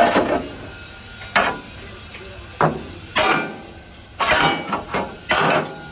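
A hammer striking metal: about six separate, irregularly spaced blows, each with a short ring.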